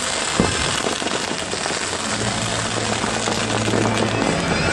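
Fireworks going off in a dense run of crackles and small pops, with one sharp bang about half a second in. Show music plays underneath and grows fuller from about two seconds in.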